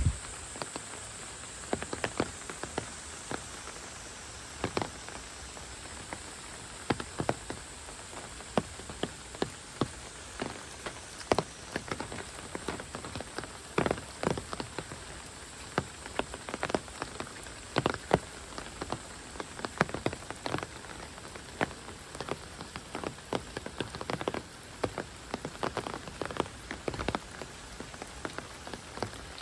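Heavy rain falling steadily, with frequent large drops striking close by in sharp, irregular taps.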